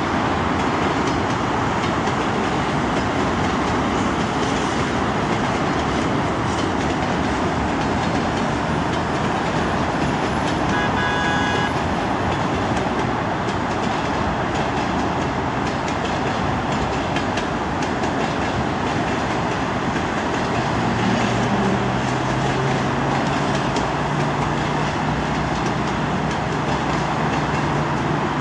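Long passenger train running past on the rails, a steady wash of wheel-and-rail noise blended with road traffic. A brief horn toot sounds about eleven seconds in, and a low hum comes in about two-thirds of the way through.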